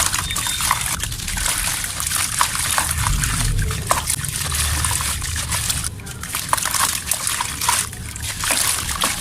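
Soft, dusty mud crumbling and snapping: a dense run of small crackles and snaps, with brief lulls about six and eight seconds in.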